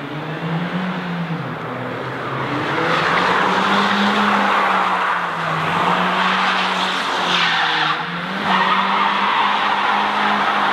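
BMW E36 drifting: the engine held at high revs, its pitch rising and falling, while the tyres screech in a long skid from about two and a half seconds in, easing briefly near eight seconds before screeching again.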